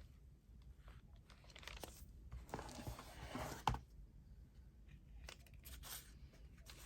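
Paper being handled and rubbed down on a journal page: faint rustles and ticks, with a louder rustle from about two and a half seconds in that ends in a sharp tap.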